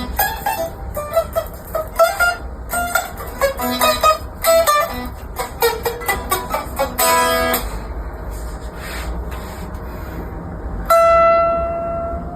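Guitar being played: a run of quick picked notes, a fuller chord about seven seconds in, then a single bright note left ringing and slowly fading near the end.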